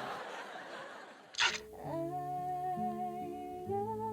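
Background music: a fading hiss, then a short swish about a second and a half in, after which an instrumental track starts with held notes in several parts.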